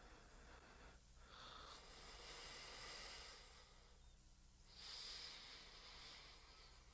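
Faint human breathing: two long, slow breaths, one starting about a second in and a louder one about five seconds in, over a low steady hum.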